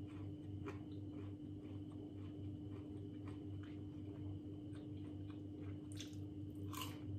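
A person chewing crispy batter-fried pork pieces (Timorese sie-seu), with irregular crunches as the pieces break up. A steady low hum runs underneath.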